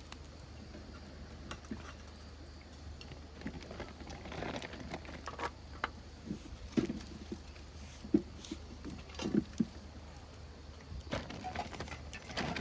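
Irregular light knocks, clicks and rustles, with a few duller thumps in the middle, over a low steady hum.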